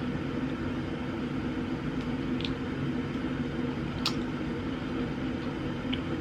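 Steady low mechanical hum of a running appliance, with a few faint light clicks.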